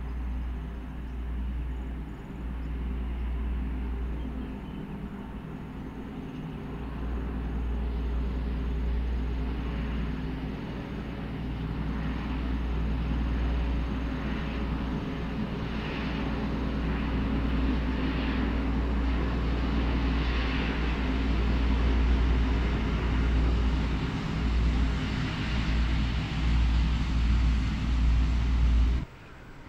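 XPT diesel passenger train running past: a steady deep drone from its power cars with wheel and rail noise, growing louder as it nears. The sound cuts off suddenly about a second before the end.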